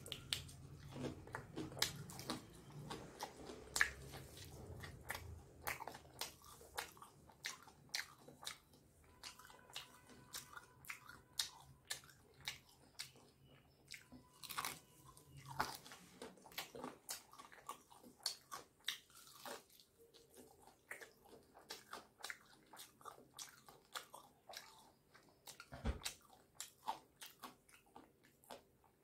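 Close-up eating sounds: crisp-coated fried chicken drumsticks being bitten and chewed, with many short crunchy crackles.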